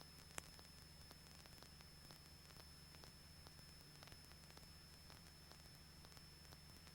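Near silence: a faint steady hiss with a low hum and a thin high whine, and one small click about half a second in.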